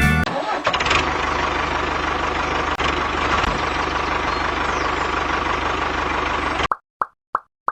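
Small motor of a DIY mini tractor running steadily with a fine low chugging rhythm. It cuts off abruptly near the end and is followed by a few evenly spaced pops.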